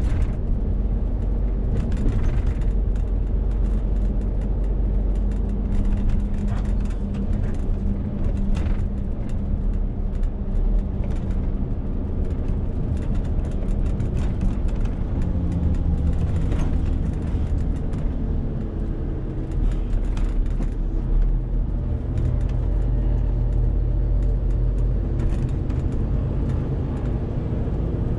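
Renault T520 truck's 13-litre straight-six diesel running under load with a 40-tonne trailer, with steady engine drone and road noise. The engine note falls slowly in the second half.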